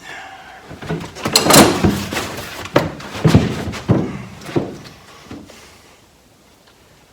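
A run of knocks, thumps and rustling against the sheet-metal cab, as foil-backed sound-deadening sheets are handled and pressed onto the cab's back wall. The loudest knocks fall in the first half, then it trails off.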